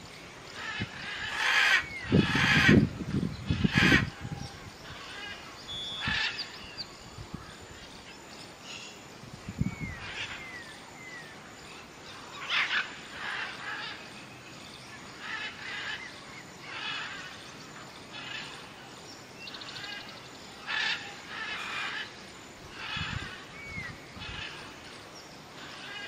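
Birds calling outdoors: a cluster of louder calls in the first few seconds, then softer calls every second or two, with a few short rising chirps.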